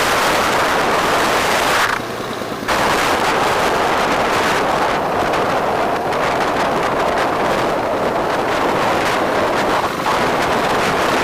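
Heavy wind buffeting on the microphone of a moving bike, mixed with road and traffic noise. It dips briefly about two seconds in.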